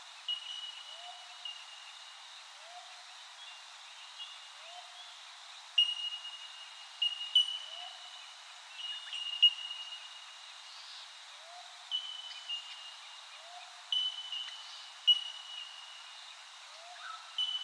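Bird calls: a short, low rising note repeats evenly about once a second under clear, high, held whistled notes that come and go in short runs.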